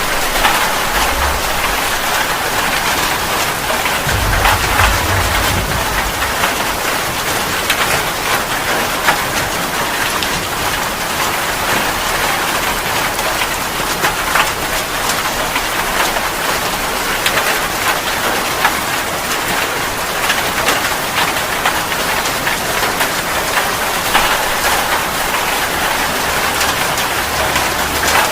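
Steady rain falling, a dense even patter of drops with scattered sharper drop ticks. A brief low rumble sounds about four seconds in.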